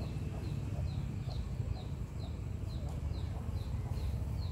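A bird repeats a short, high falling call evenly, about twice a second, over a steady low rumble from outdoors.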